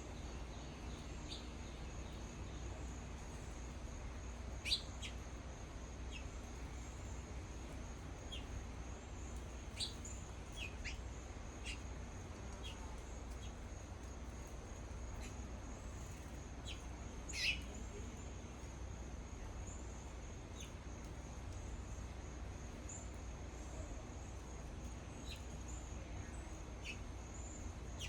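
Small songbirds giving short, scattered chirps and calls, two of them sharper and louder, about five seconds in and again past the middle. Underneath runs a steady, high, pulsing insect trill and a low steady hum.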